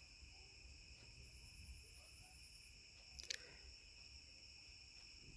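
Near silence: a faint, steady high-pitched background hum with a brief faint click about three seconds in.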